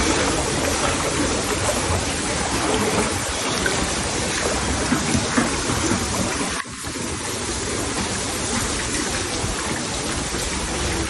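Floodwater rushing and splashing in a steady, loud wash of noise, with a brief dip about six and a half seconds in.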